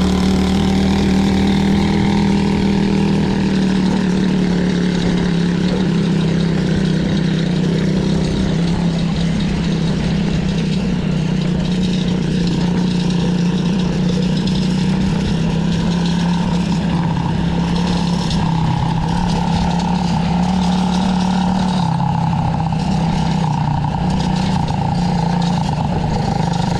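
Quad bike running steadily under way, its motor note holding close to one pitch and drifting slightly up and down.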